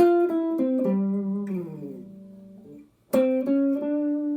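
Guitar played note by note: a phrase of picked notes that slides down in pitch at its end and fades away, then a new phrase of picked notes starting about three seconds in.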